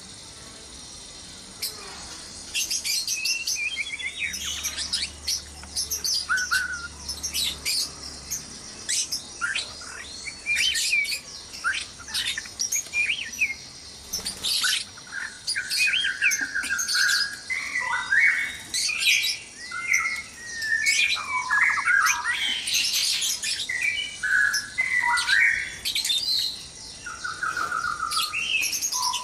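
White-rumped shamas calling and singing: a busy, overlapping mix of chirps, whistles and trills. It starts about a second and a half in and grows denser in the second half.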